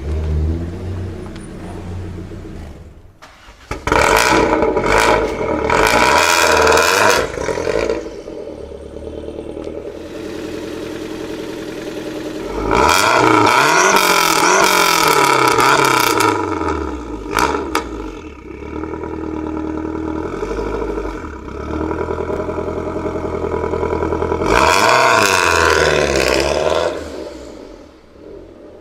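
Supercar engine revving hard three times, each burst rising and falling in pitch, with the engine running more quietly in between; it fades near the end.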